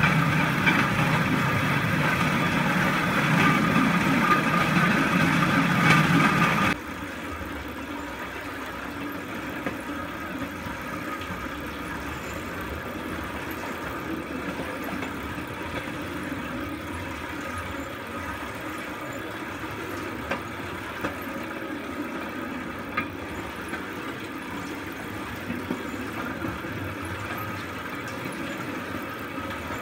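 Four-wheeled rail bike's wheels rolling along the railroad track, a steady noise with a few faint clicks. About seven seconds in, the noise drops suddenly to a quieter level.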